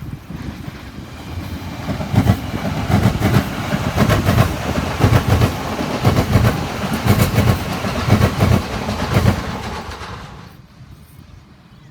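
Train passing at close range, its wheels clacking over the rail joints in quick groups. It builds about two seconds in and fades away near the end.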